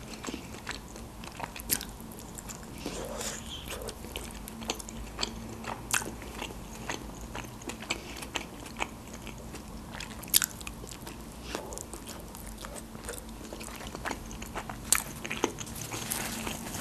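Close-miked eating sounds: biting into and chewing a khinkali (Georgian dumpling), heard as scattered sharp mouth clicks.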